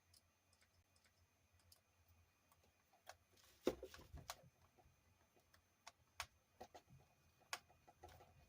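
Faint, scattered clicks and light knocks of a small screwdriver and parts being handled while screws go into an RC car chassis, with one louder knock a few seconds in.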